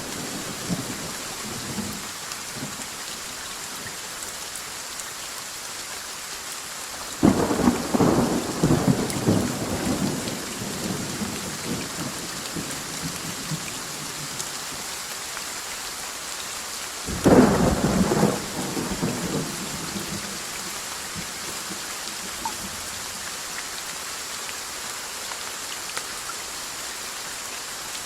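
Steady rain falling, with two loud thunderclaps about seven and seventeen seconds in, each rumbling away over a few seconds.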